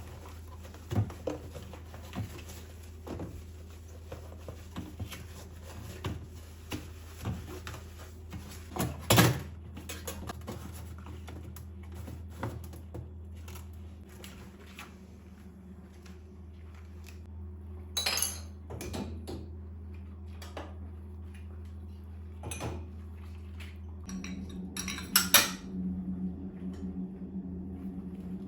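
Dishes and cutlery clinking and knocking as they are handled, in scattered irregular strikes, over a steady low hum that changes near the end.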